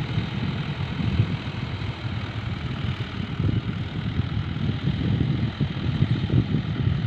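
640 tractor's diesel engine running steadily under load, pulling a laser land leveller.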